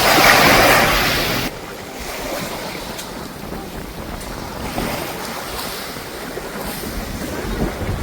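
Sea waves washing on a beach, with wind buffeting the microphone. A louder rush in the first second and a half cuts off abruptly to quieter, steady surf with small swells.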